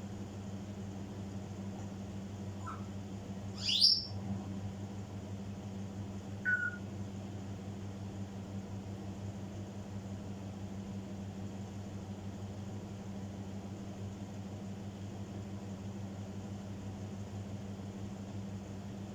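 African grey parrot giving a short, loud upward-sweeping whistle about four seconds in, with a faint chirp just before it and a brief whistled note a couple of seconds later, over a steady low hum.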